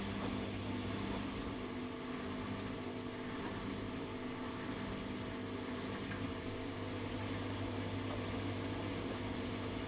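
ATLANT 70C1010-02 washing machine running with a steady mechanical hum, several even tones held throughout.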